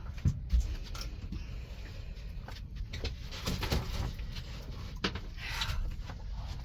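Handling noises on a boat: scattered knocks and rustling, the loudest knock about half a second in, over a steady low rumble.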